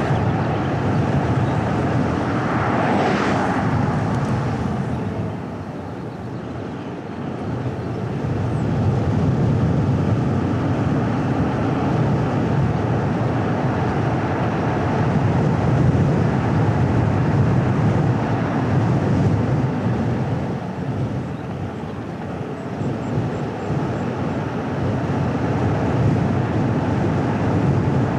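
A car driving on a winding hill road, a steady rumble of tyres and engine. There is a brief louder rushing swell about three seconds in, and the noise eases off twice as the car slows.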